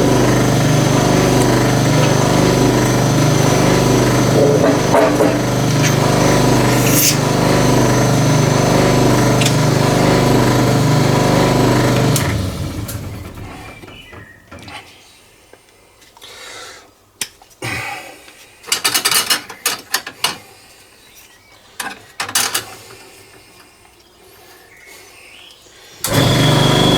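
Vacuum pump motor running steadily while a cylinder head's valves are vacuum-tested; it winds down about twelve seconds in. Sharp clicks and knocks of handling follow, and the pump starts again near the end.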